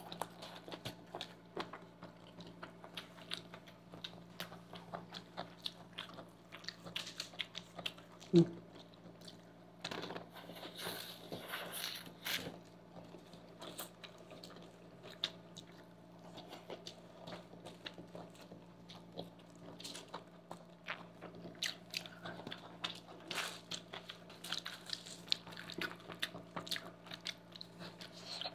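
Quiet close-miked eating: two people chewing chow mein noodles, with many small wet mouth clicks and smacks over a faint steady hum. One brief louder sound stands out about eight seconds in.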